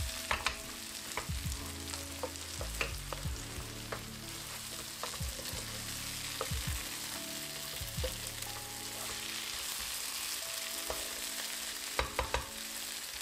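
Pieces of boiled-then-fried taro root (arbi) sizzling in oil in a dry masala with no water, over a lowered gas flame, while being stirred. A steady sizzle runs under scattered knocks and scrapes of the stirring, with a cluster of them about twelve seconds in.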